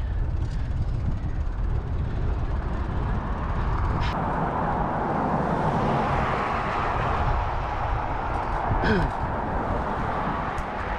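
Wind rumbling on the microphone during a bicycle ride, with a passing vehicle that swells up about four seconds in and fades away toward the end.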